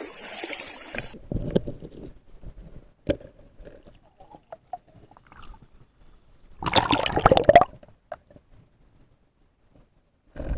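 River water sloshing and gurgling, with scattered small clicks and a loud burst of splashing and bubbling about seven seconds in.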